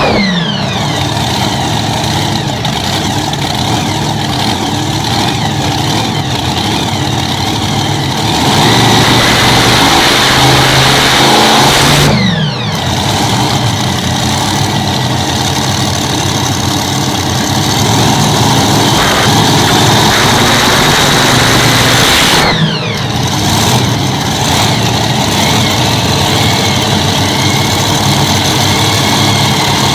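Pulling tractor's Hemi V8 engines running hard on a test run. The revs fall off sharply and pick up again three times: at the start, about 12 seconds in and about 23 seconds in.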